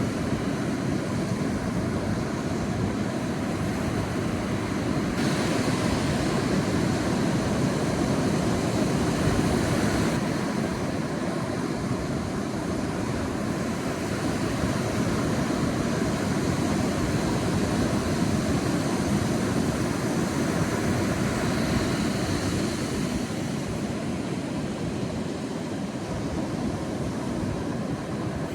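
Sea waves breaking and washing on a beach: a steady low surf rumble, with a wave washing in more loudly from about five to ten seconds in and a smaller one about 22 seconds in.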